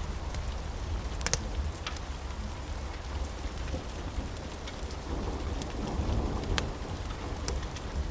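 Steady rain with a low rumble of thunder that swells about five seconds in, and scattered sharp crackles from a fireplace.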